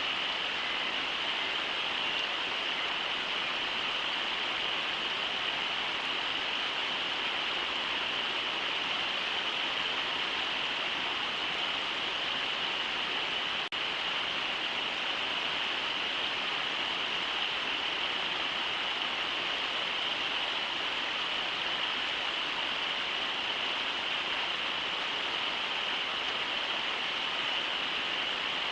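Steady rush of shallow river water running over riffles, with one momentary dropout about halfway through.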